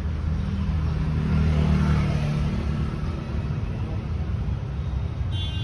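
Motor vehicle engine running with a steady low rumble that swells about two seconds in, as a vehicle passing close or revving would. A brief high beep sounds near the end.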